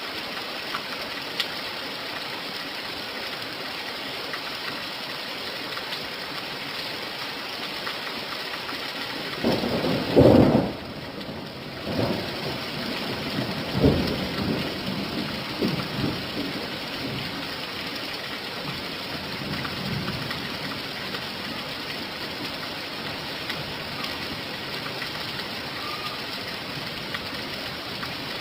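Steady rain falling, with a loud clap of thunder about ten seconds in and a few weaker rumbles of thunder after it.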